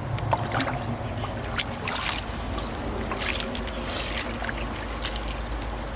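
Water sloshing and trickling, with scattered small clicks and taps, over a steady low hum.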